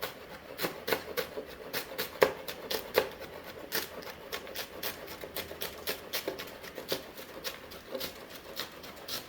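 Knife rapidly chopping scallions and seasonings on a cutting board, a steady run of sharp cuts at about four a second.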